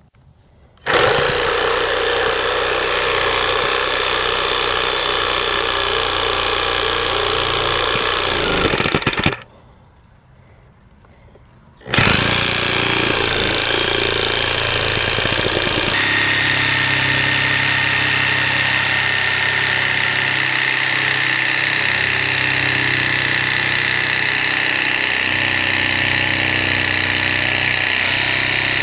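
Reciprocating saw cutting in two runs: it starts about a second in, stops for about three seconds, then starts again and runs on, its tone shifting a few seconds after the restart.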